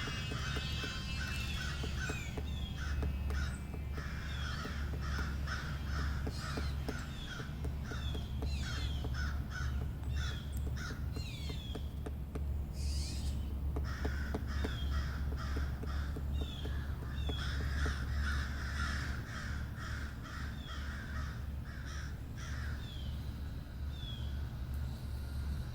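Harsh bird calls repeated in long runs, a few a second, pausing briefly about halfway through, over a steady low rumble.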